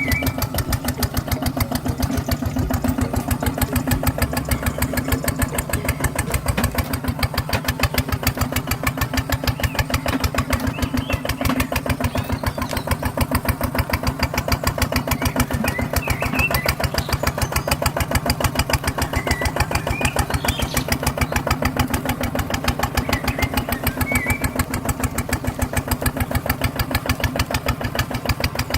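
Small engine running steadily at an even speed with a fast, regular putter, like a mini tractor's motor working.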